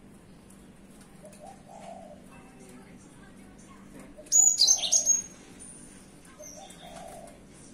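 Cinereous tit (gelatik batu) giving one short, loud burst of rapid high chirping notes a little past halfway. A dove coos softly in the background every two to three seconds.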